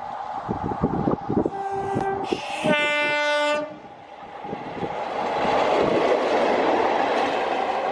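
Train horn sounding two notes, a short higher one then a longer lower one, over the clatter of wheels on rail joints. After the horn, the steady rushing noise of the train running past grows louder.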